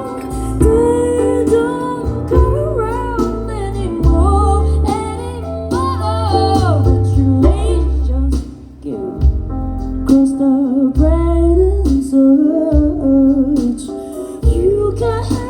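Live jazz band playing, with a female singer's wordless, sliding vocal lines over bass and guitar.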